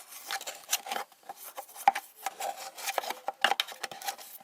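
Toothbrush scrubbing vinegar-loosened mineral scale off a part of a hot-mist humidifier: a run of uneven scratchy strokes with a few sharper knocks.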